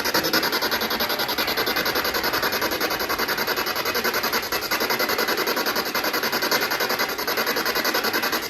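Spirit box sweeping through radio stations, a steady hiss of static rapidly chopped many times a second, played through a small portable speaker.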